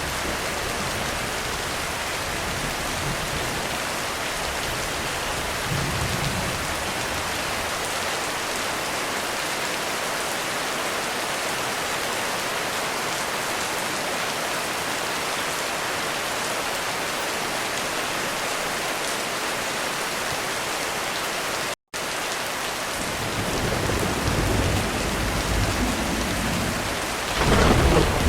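Heavy rain falling steadily on a roof. The sound cuts out completely for a split second about three quarters of the way through, then thunder rolls in, building in rumbles and swelling loudly near the end.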